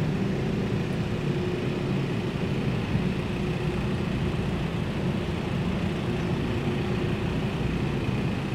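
Steady low hum and hiss of background noise inside a large showroom, with a faint steady high whine over it and no distinct events.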